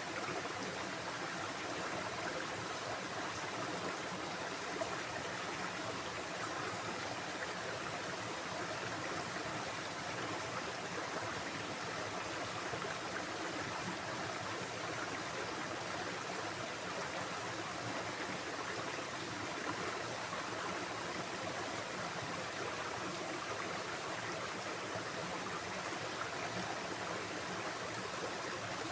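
Running water of a stream, a steady rushing with no breaks.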